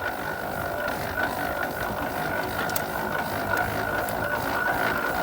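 Half-scale 65 hp Case steam traction engine running, its gearing clattering continuously over a steady high-pitched tone. The owner wonders if the noise is just the gears hitting on a shoulder that was added.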